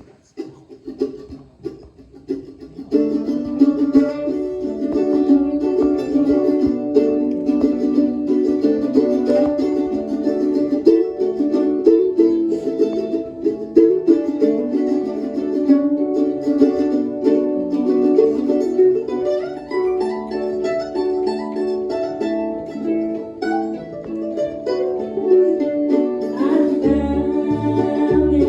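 Instrumental intro of a bluegrass-style tune on harp, mandolin and upright bass: a few soft plucked notes, then the full trio comes in about three seconds in and plays on steadily.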